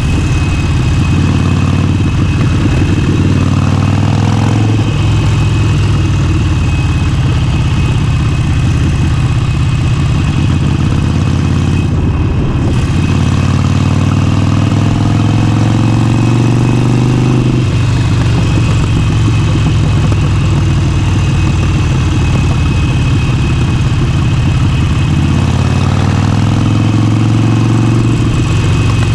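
Motorcycle engine under way, rising in pitch as it accelerates and then dropping back, three times: about a second in, around the middle, and near the end.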